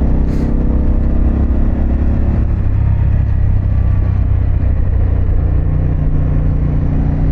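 Harley-Davidson Pan America's 1250 cc V-twin with a Vance & Hines exhaust running under way, heard over wind noise. Its note shifts about two and a half seconds in.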